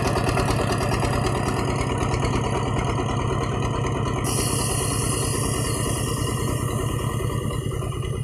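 Single-cylinder diesel engine of a công nông farm truck running steadily with a rapid, even thumping. A high hiss joins about halfway through.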